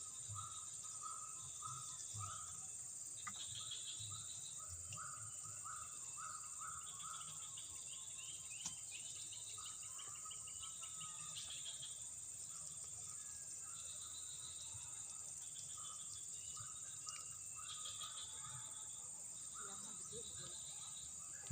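Insects, such as crickets, buzzing steadily at a high pitch, with strings of short, repeated chirping calls over the top.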